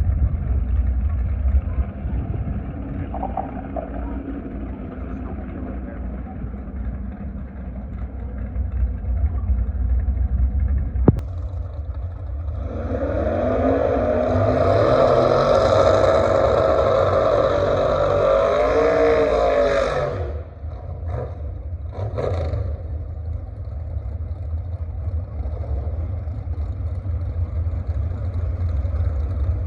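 Drag car engine revving hard for about seven seconds, starting about twelve seconds in and cutting off sharply, over a steady low rumble.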